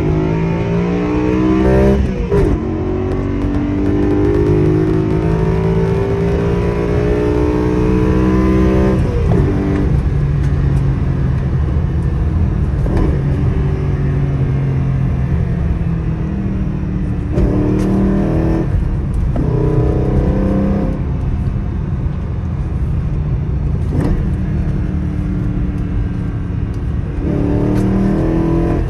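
BMW M3's 4.0-litre S65 V8 through a Corsa cat-back exhaust and aFe cold air intake, accelerating in several pulls: the pitch climbs with the revs, drops sharply at each upshift, and holds steadier between pulls.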